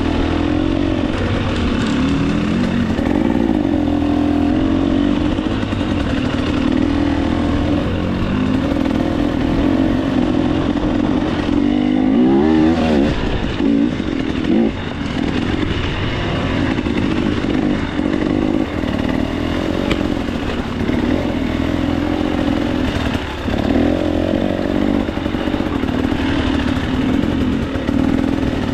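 KTM 300 XC-W single-cylinder two-stroke dirt bike engine under way, its pitch rising and falling constantly with the throttle, with a quick rev-up about halfway through.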